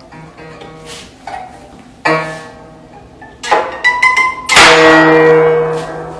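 Guitar music: a few single plucked notes that ring and fade, then a loud strummed chord about four and a half seconds in that rings on.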